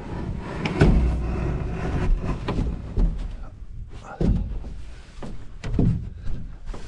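A few dull thumps and knocks, each with a low rumble, about a second in, past four seconds and near six seconds.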